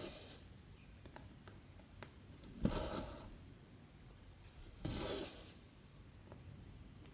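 Cotton embroidery thread being drawn through 14-count cross-stitch fabric: a short rasping swish of the pull, twice, about two seconds apart, with small ticks of the needle between.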